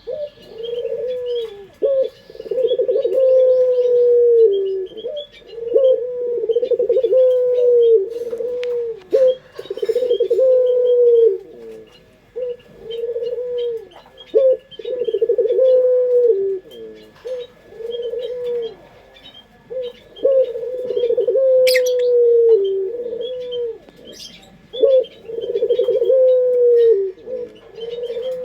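Puter pelung (domestic Barbary dove) cooing over and over in long, slightly falling notes, one after another with short gaps. Small birds chirp faintly behind, and there is a single sharp click near the end.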